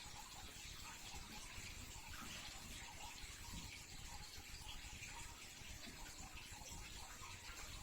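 Quiet room tone: a faint, steady hiss with no clear event.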